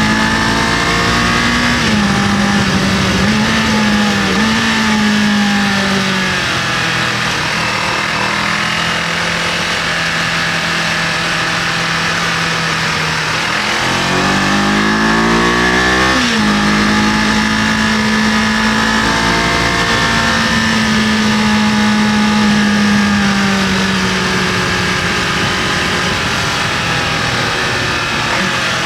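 Kawasaki KLE500's parallel-twin engine pulling under throttle while riding, with wind rushing past. The revs hold fairly steady, ease off, then climb sharply about halfway through and drop suddenly at a gear change before settling again.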